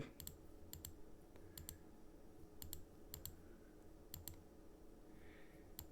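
Computer mouse clicking quietly, about seven quick double clicks at uneven intervals, over a faint low hum.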